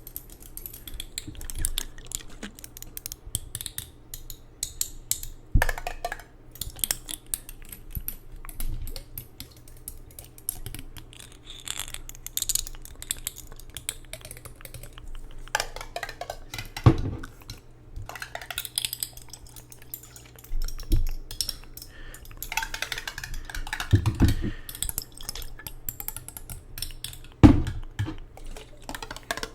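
Close-miked ASMR tapping and handling of objects: a dense run of quick light taps and clicks, with a few heavier knocks and a short rustling, hissy stretch about two-thirds in.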